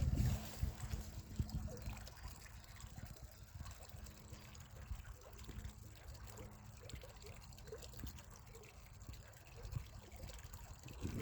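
Spring water trickling faintly.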